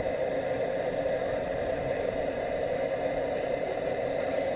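Blowtorch burning steadily, a constant noisy flame sound, while it preheats the glow bulb of a Lanz Bulldog's hot-bulb engine before starting.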